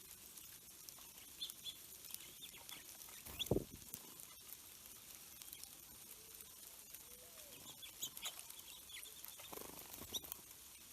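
Faint, short bird chips and calls, scattered and irregular. A low thump comes about three and a half seconds in, and a softer one near the end.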